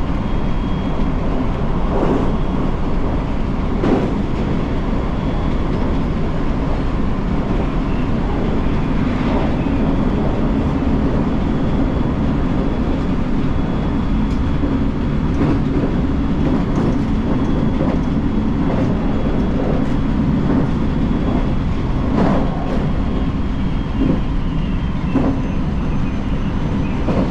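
A Sanyo Shinkansen Sakura train running at speed, heard as a steady low rumble with a faint steady tone above it. A few light knocks come and go.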